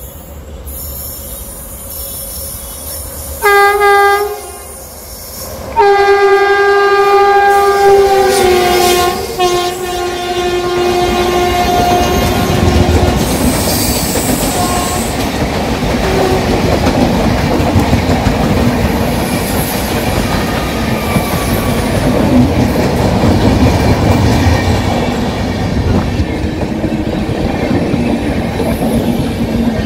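A passing Indian Railways express sounds its shrill horn: a short blast, then a long blast whose pitch drops as the locomotive passes. Its coaches then rush past at speed with a steady rattle and clickety-clack of wheels over the rail joints.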